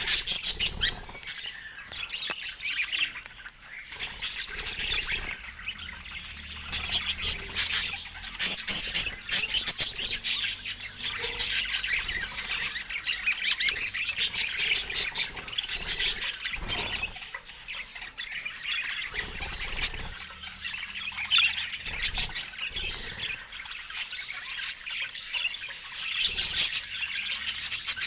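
Budgerigars chattering: a dense, continuous twittering of many quick chirps and squawks.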